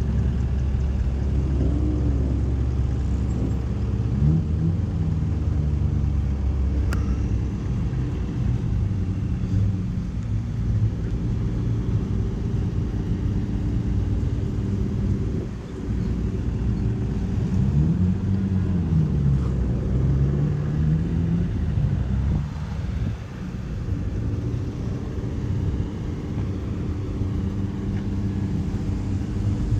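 Vehicle engines leaving a car show, running with a low rumble and revving up and back down several times as they pull away.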